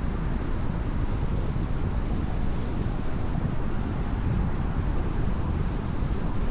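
Steady road noise of a car travelling at expressway speed on wet pavement in the rain: an even rush of tyre and wind noise, heaviest in the low range, with no change in level.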